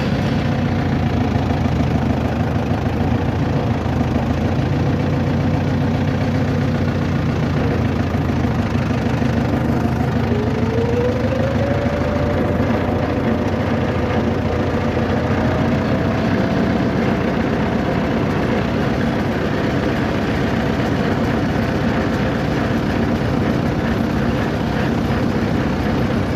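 Steady running of a motor vehicle: a continuous low engine hum with road noise. About ten seconds in, a faint whine rises in pitch and then holds for several seconds.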